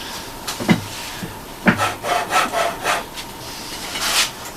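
Wooden parts of a homemade sander being handled, rubbing and scraping in short irregular strokes.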